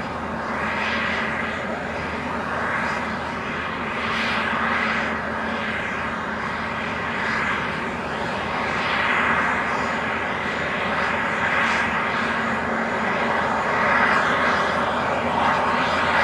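Airbus A320neo's CFM LEAP-1A turbofan engines running steadily on the ground before takeoff: a continuous rushing hiss with a low steady hum beneath, swelling and easing slightly.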